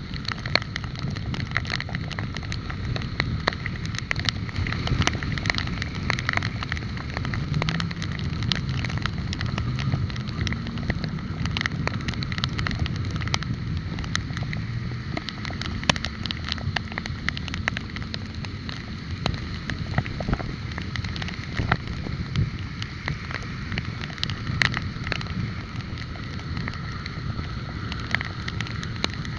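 Road noise heard while riding through city traffic: a steady rumble with wind on the microphone and frequent small clicks and rattles, and an engine rising and falling in pitch from about eight to twelve seconds in.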